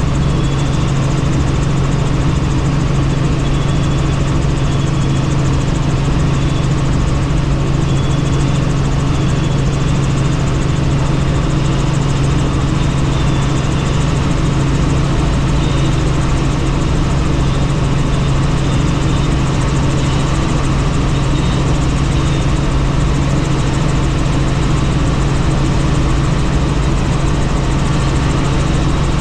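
Helicopter in flight heard from on board: steady engine and rotor noise with a strong low hum that does not change.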